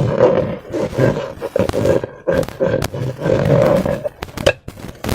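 Rubber balloons being squeezed and rubbed, squeaking in a run of short groans, with a few sharp clicks near the end.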